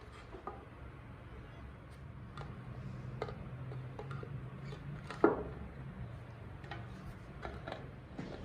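Light clicks and knocks of things being handled, with one louder knock about five seconds in, over a steady low hum.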